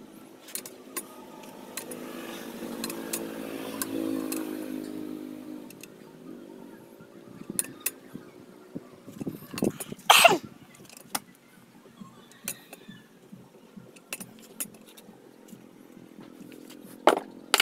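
Metal clicks and clinks of hand tools and engine parts being handled during an engine overhaul, with a loud clattering knock about ten seconds in and another near the end. A passing vehicle's engine swells and fades in the background early on.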